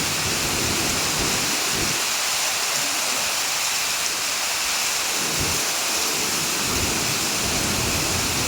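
Heavy rain falling in a steady, dense hiss, with low rumbles coming and going underneath.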